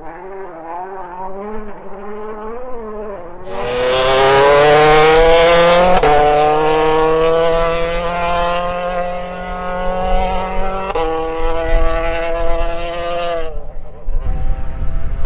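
Rally car engines at speed. First a car's revs rise and fall quickly several times. Then, suddenly, a much louder car is heard close up at full throttle, its engine note climbing and held high, with sharp breaks for gear changes, before it cuts off near the end.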